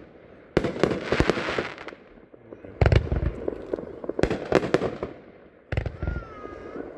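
A 25-shot consumer fireworks cake firing: four heavy shots with their bursts, about half a second, three, four and six seconds in, each followed by a cluster of sharp pops and crackle dying away.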